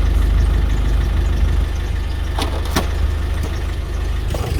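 Car engine idling with a steady low rumble that eases slightly under two seconds in. Two sharp clicks about half a second apart come in the middle.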